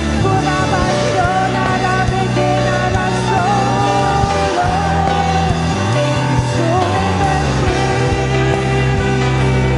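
Live worship band playing a slow song, with a singer's melody gliding and wavering over sustained low notes but no words the recogniser could catch.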